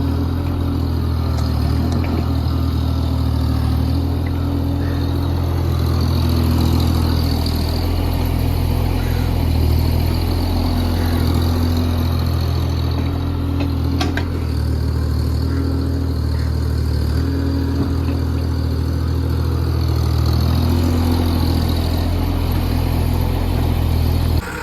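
JCB JS30 Plus mini excavator's diesel engine running steadily while it digs and loads soil, its note rising and falling slightly as it works. A single sharp click about fourteen seconds in.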